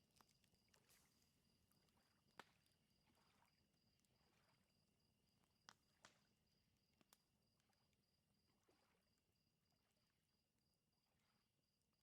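Very faint night ambience: crickets chirping steadily, with a few sharp pops from a crackling wood fire, the loudest about two and a half seconds and six seconds in.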